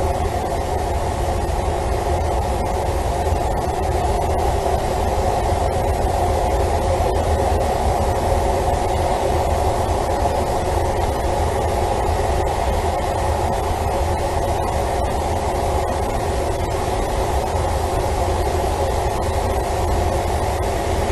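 Steady low rumbling drone with a hum and a hiss over it.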